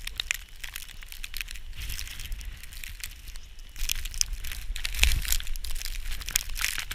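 Footsteps crunching through snow in an irregular run of crunches, louder from about four seconds in.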